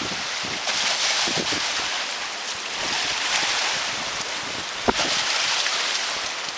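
Strong wind buffeting the microphone over the rush of storm-surge waves, swelling and easing, with a brief thump about five seconds in.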